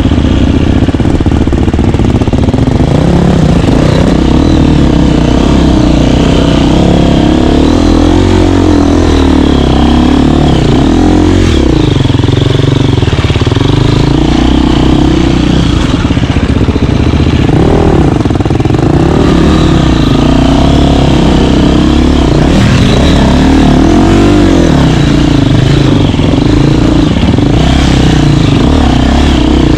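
KTM 350 dirt bike's four-stroke single-cylinder engine running loud while riding, its revs rising and falling again and again with the throttle.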